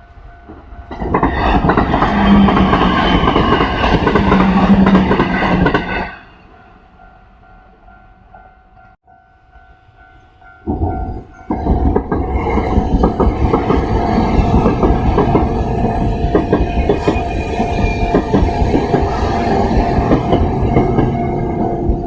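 Level-crossing warning bell ringing steadily while a Kintetsu electric train runs past for about five seconds. After a short lull, a second train rolls through with a fast clickety-clack of wheels over rail joints until the end.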